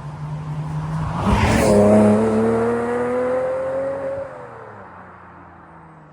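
Porsche Boxster S 986's flat-six running through a Gravity Performance rear silencer: a steady note, then a sharp rise in revs about a second in. The pitch keeps climbing for about three seconds, then drops and the sound fades away.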